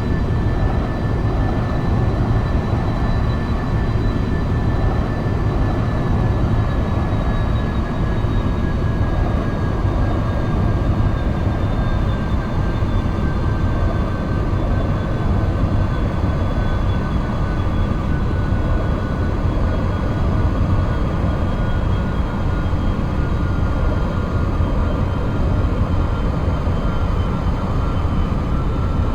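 Jet airliner engines running steadily with a deep rumble, over which a thin whine slowly falls in pitch.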